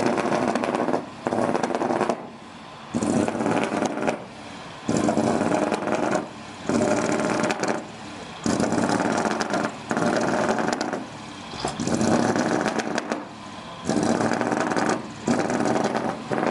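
Decorated truck's diesel engine with a mani-wari (manifold-cut) exhaust being revved in a string of loud blips, each about a second long, with brief drops back between them.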